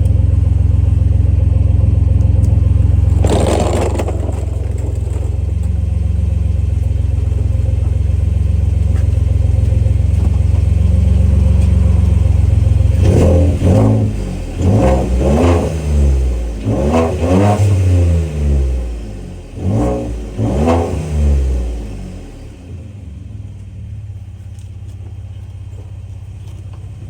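A Ford F-150's 3.5-litre twin-turbo EcoBoost V6 idles through an aftermarket cat-back dual exhaust, is revved in a series of short blips about halfway through, then drops back to a quieter idle. No exhaust-leak puffing is heard, which the owner takes to mean the tightened exhaust joint is now sealed.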